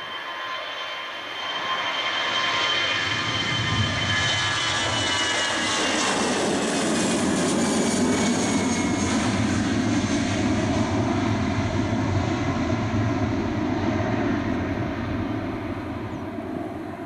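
Airbus A320 jet airliner at takeoff thrust passing by. A high engine whine slides down in pitch, then a deep jet rumble builds, holds loud and fades away as the aircraft climbs out.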